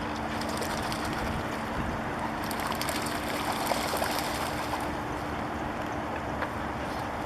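Wind rushing and buffeting the microphone as a steady noise with a low rumble, over a faint steady hum.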